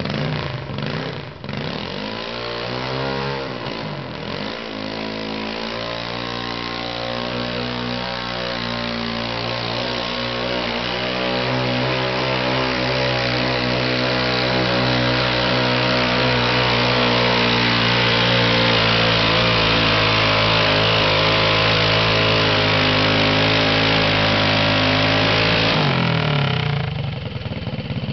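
Superstock garden tractor engine revving up and down a couple of times, then held at steady high revs for about twenty seconds during a pull, growing louder. The throttle is cut suddenly near the end.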